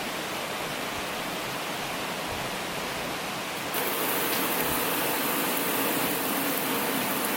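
Steady rushing noise that turns louder and brighter about four seconds in.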